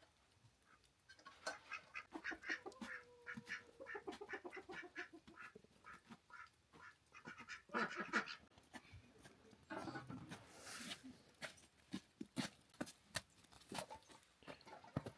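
Farmyard poultry calling, several birds at once in short repeated calls, with one longer pitched call a few seconds in.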